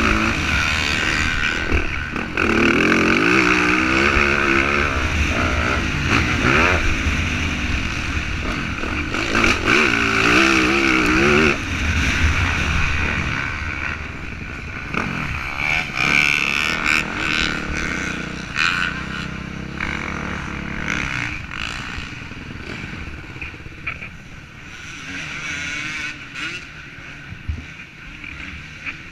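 Motocross bike engine revving up and down as it rides, loud at first and fading away over the second half.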